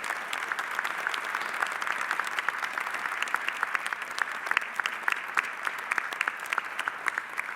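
Audience applauding, a steady mass of hand claps that tails off near the end.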